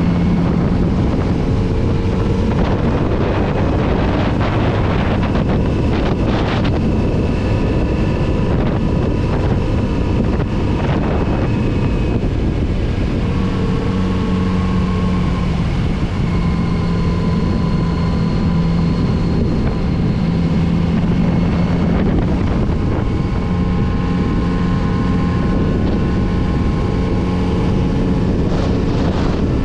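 Kawasaki Z900RS inline-four motorcycle engine running on the road, its note rising and falling as the revs change, with heavy wind noise on the microphone.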